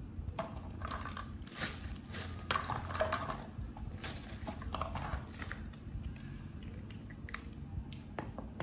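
Close chewing and biting of food, with irregular wet clicks and small crunches that thin out in the second half.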